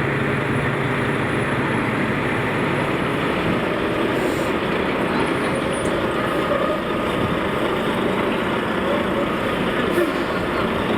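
Steady street traffic noise, with vehicle engines running and no sudden events.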